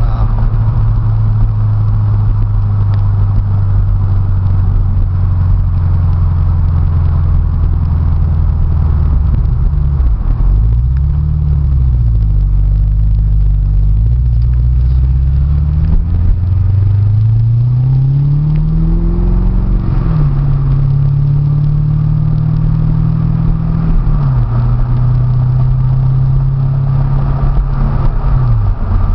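Twin-turbocharged V8 of a 2005 Chevrolet Corvette C6, heard from inside the cabin while driving. The engine runs steadily with a loud low drone. About a third of the way in its pitch dips and briefly swells. Past the middle it climbs steadily for a few seconds as the car accelerates, then drops back and holds steady again.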